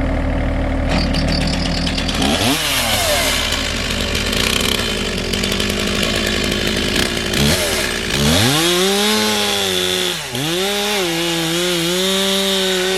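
Two-stroke chainsaw revving and cutting wood. Its engine note climbs under throttle and sags as the chain bogs down in the cut, most sharply about ten seconds in, then picks up again.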